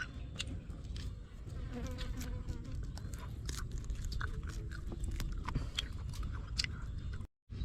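Someone biting and chewing grilled duck, with many small crunchy clicks, over a steady buzz of insects. The sound drops out for a moment near the end.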